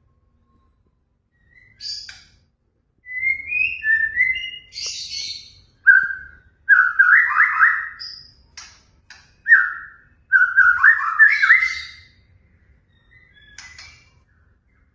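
White-rumped shama singing: a run of varied whistled phrases and sharp chirps broken by short pauses, starting about two seconds in and trailing off near the end.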